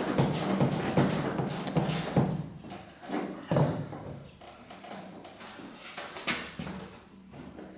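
Irregular knocks, clicks and clatter of hands working the ATV's exhaust pipe and springs loose, busiest in the first few seconds, with a louder knock about six seconds in.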